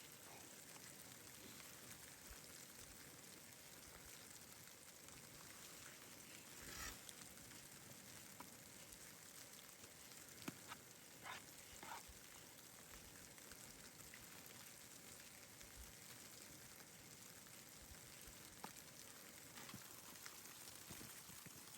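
Near silence: a faint, steady hiss with a few soft clicks and ticks scattered through it, most of them around the middle.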